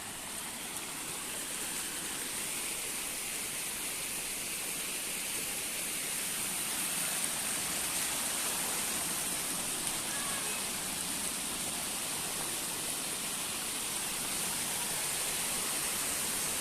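Flood water rushing steadily, an even roar that grows a little louder over the first several seconds.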